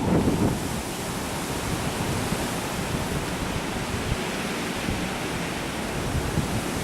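Steady hiss of heavy thunderstorm rain, even across high and low pitches. Wind buffets the microphone in the first half second, then dies away.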